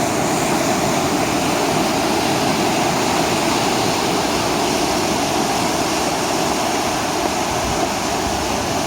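Floodwater rushing down a wadi at the start of a flash flood: a loud, steady roar of moving water.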